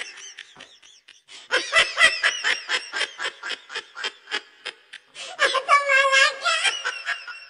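High-pitched laughter, a fast run of short ha-ha pulses about five a second, followed near the end by a squeaky, high voice held for about a second and a half.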